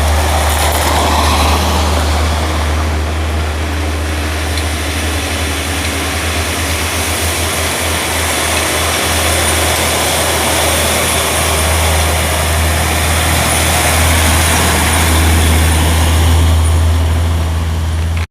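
Heavy logging truck's diesel engine running steadily with a strong low drone and a broad rushing noise over it; the sound cuts off suddenly at the end.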